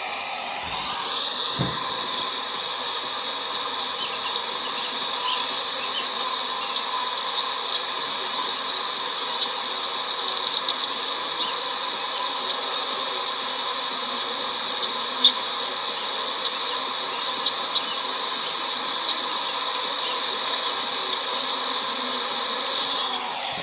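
A honey bee swarm, just shaken off a tree branch into a hive box and thrown into disarray, buzzing in a steady drone as the bees fly around. Short high chirps sit over the buzz, with a quick run of ticks about halfway through.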